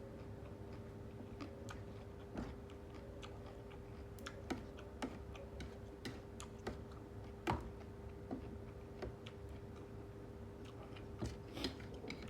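Irregular light clicks and snaps of food being handled and picked apart by hand, a few sharper snaps among them, over a steady faint hum.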